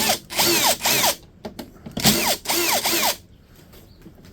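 Cordless power drill run in two bursts of about a second each, near the start and about two seconds in, its pitch rising and falling repeatedly as it loads, while a dehumidifier is being taken apart for scrap.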